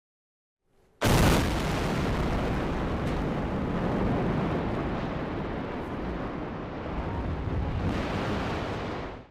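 Explosive demolition of a NASA rocket engine test stand: a sudden blast about a second in, followed by a long, heavy rumble as the structure comes down, which cuts off abruptly.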